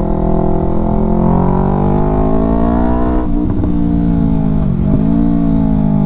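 Yamaha R3's parallel-twin engine through an Akrapovic full exhaust system, ridden under throttle. The exhaust note rises steadily, drops sharply about three seconds in, dips briefly again near five seconds, then holds steady.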